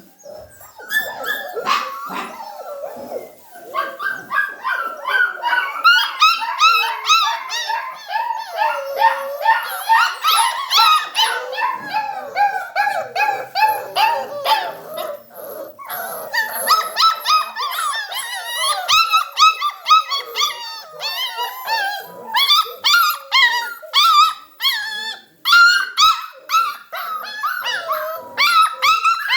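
A litter of puppies whining, yelping and barking, many overlapping high-pitched cries in quick succession.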